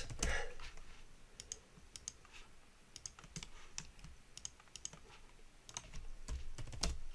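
Faint, irregular clicks and taps of a computer keyboard and mouse in use, a few louder ones near the end.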